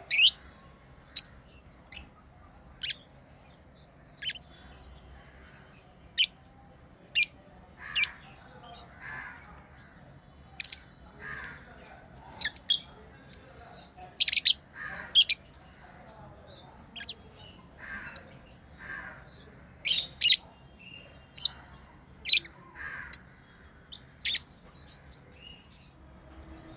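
Pet lovebirds chirping: many short, sharp, high chirps at irregular intervals, with softer, lower calls between them.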